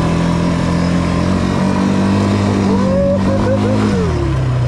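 ATV engine running under throttle while riding. Its pitch rises a little about a second and a half in, holds, then drops as the throttle eases off near the end.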